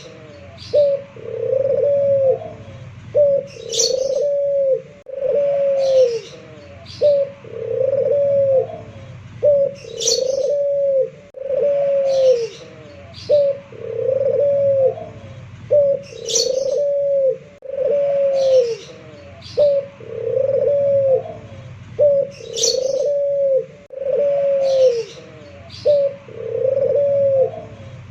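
A local puter pelung, a domestic collared dove, cooing over and over, about once a second. Each coo is a short note followed by a longer arched note. Short high chirps sound every few seconds.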